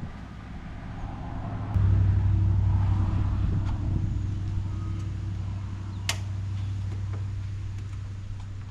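Toyota GR Corolla's turbocharged three-cylinder engine starting up about two seconds in, then running steadily and slowly settling toward idle. There is a sharp click about six seconds in.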